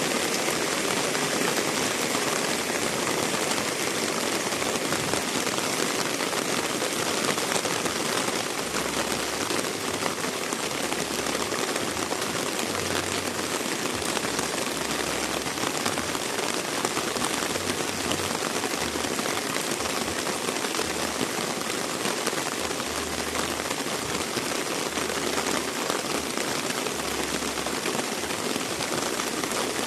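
Heavy rain falling steadily: a dense, even hiss of water with no let-up.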